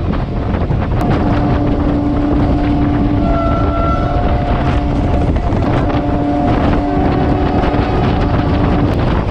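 Train running at speed, a steady rumble with heavy wind noise on the microphone. A steady two-note tone is held for about four seconds, breaks off briefly, and sounds again for about three more seconds.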